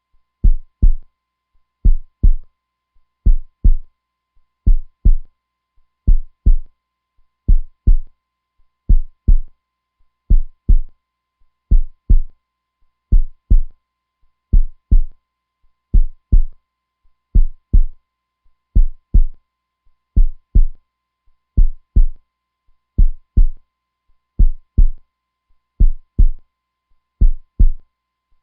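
Heartbeat sound: a steady, slow lub-dub, each beat a pair of low thumps, coming about once every second and a half.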